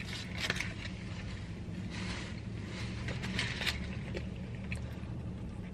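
Chewing a mouthful of fried chicken sandwich, with irregular crinkles of the sandwich's foil wrapper, over a steady low hum inside the car.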